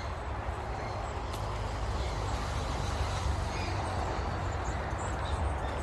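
Steady outdoor background: a low rumble with a hiss over it, and a few faint, short bird chirps.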